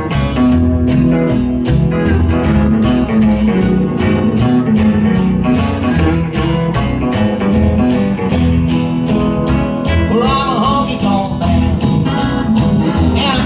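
Live country band playing an instrumental passage: guitars over a steady, driving beat and a bass line. A few bent, sliding notes come in about ten seconds in.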